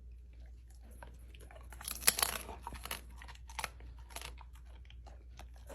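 Crunchy chewing: irregular crunches, densest and loudest about two seconds in, then scattered bites.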